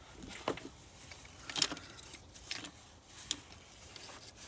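Scattered metallic clicks and clinks of hands and tools working at the alternator cable connections under the hood, the loudest about a second and a half in.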